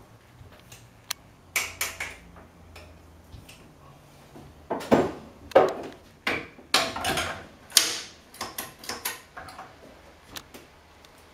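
Scattered clacks and knocks of metal espresso portafilters being handled while they are filled with ground coffee, loudest and most frequent in the middle of the stretch.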